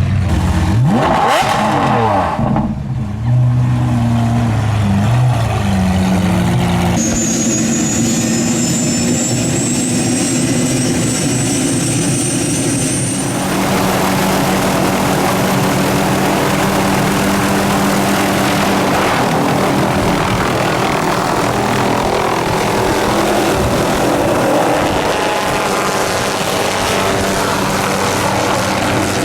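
Supercar engines revving, their pitch swinging up and down in the first few seconds, then running steadily. A thin high whine rises slowly for several seconds in the middle.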